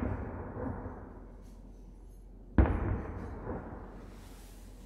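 Aerial firework shells bursting: a boom right at the start and a second about two and a half seconds in, each dying away in a rumble over about a second.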